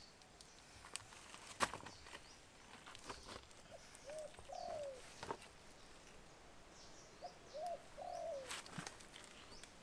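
A bird calling twice, each call three low notes with the last one longer and falling in pitch. Several sharp knocks come in between, the loudest near the start, with faint higher chirps of other birds.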